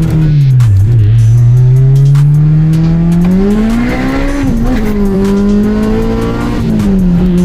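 Honda K24 inline-four engine in a Civic under acceleration. The engine note drops about a second in, then climbs steadily for about three seconds. It dips sharply around the middle, a gear change, then holds and falls away near the end.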